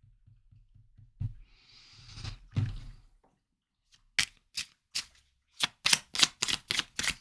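Tarot cards being handled and shuffled by hand: a knock and a rustle of the deck, then a run of quick card slaps that speeds up to about five a second in the second half.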